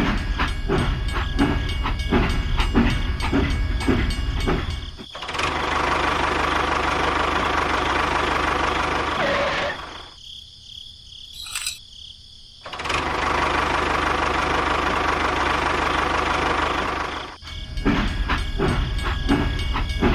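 A small engine running with a fast pulsing rumble at the start and again near the end. In between, two stretches of steady even mechanical noise are broken by a brief quieter gap about ten seconds in.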